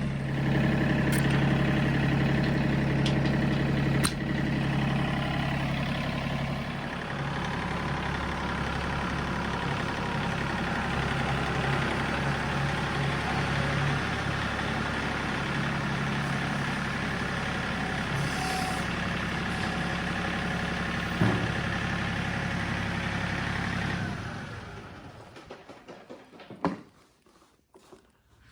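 John Deere 3 series compact tractor's three-cylinder diesel engine running steadily, with a few sharp clicks and knocks. Near the end the engine shuts off and dies away, followed by a single sharp knock.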